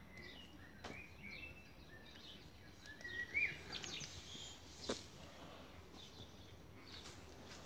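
Birds chirping in short scattered calls, one rising chirp about three and a half seconds in, over a low steady outdoor background hum. A few sharp clicks, the clearest about five seconds in.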